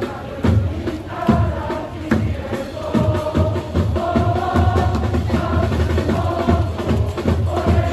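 Football supporters' crowd singing a chant in unison, backed by a steady bass drum beat about twice a second.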